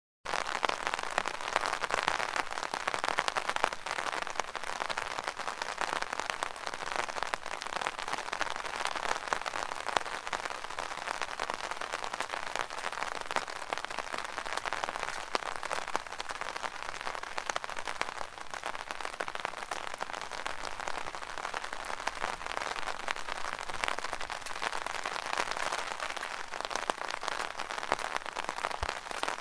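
Steady rain pattering on an umbrella canopy, a dense spray of small drop impacts. It cuts in suddenly just after the start, out of complete silence.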